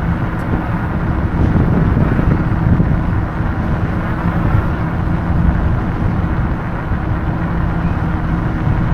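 Wind rushing over the microphone and road noise while riding a Hidoes B6 electric bike at a steady cruising speed.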